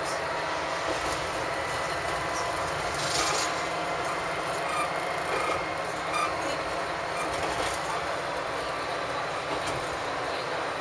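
Diesel railcar running along the track, heard from inside the cab: a steady mix of engine and wheel-on-rail noise, with a few faint clicks from the wheels over the rails.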